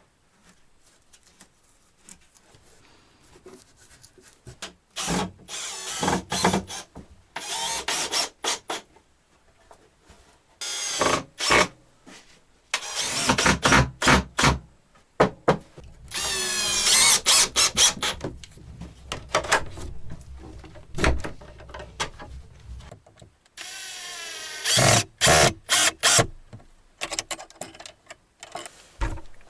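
Power drill running in repeated short bursts, its motor whine rising and falling in pitch as it speeds up and slows. The first burst comes about five seconds in.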